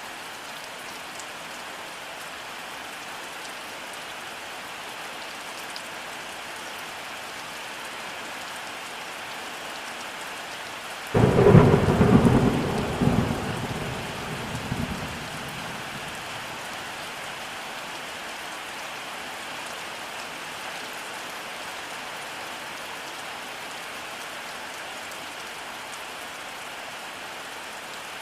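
Steady rainfall hissing, with a single clap of thunder breaking in suddenly about eleven seconds in and rumbling away over a few seconds.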